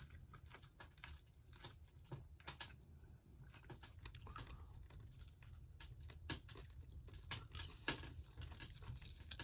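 A person chewing freshly cooked fish: faint, irregular crunching and clicking of eating over a low steady hum.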